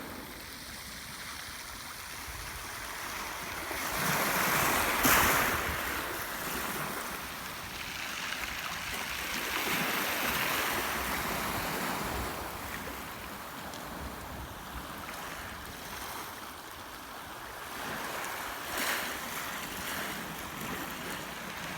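Black Sea waves breaking and washing onto the shore, swelling every several seconds and loudest about five seconds in.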